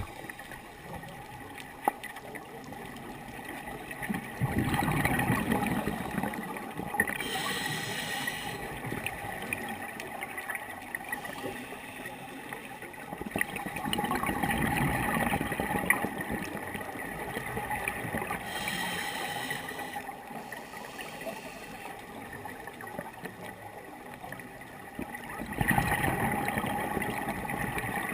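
A scuba diver breathing through a regulator, heard underwater: three slow breaths, each a surge of bubbling exhaust followed by a short high hiss, about ten seconds apart. A faint steady whine runs underneath.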